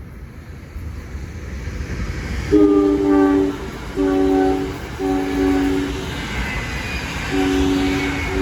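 A passing train's air horn sounds four blasts of about a second each over the growing rumble of the approaching train. The noise of the wheels on the rail builds near the end.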